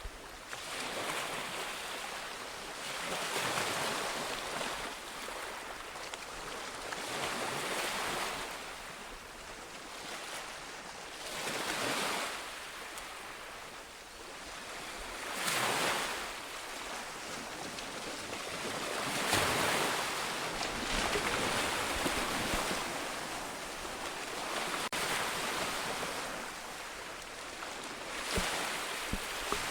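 Ocean waves breaking on a shore, each surge of surf swelling and washing back every few seconds, with wind noise on the microphone.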